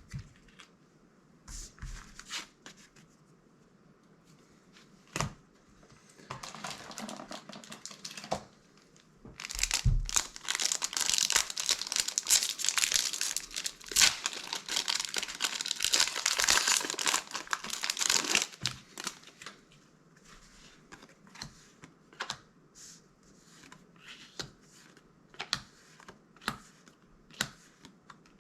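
Foil booster pack wrapper being crinkled and torn open, loudest for about nine seconds in the middle. Light clicks and snaps of trading cards being handled follow near the end.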